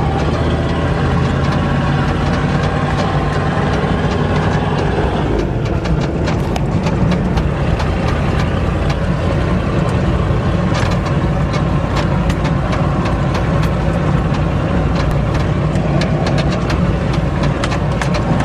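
Ford diesel truck engine with no exhaust system or muffler, running steadily while driving, heard from inside the cab. Frequent clicks and rattles from the bouncing cab sound over it, and the engine sound eases about five seconds in.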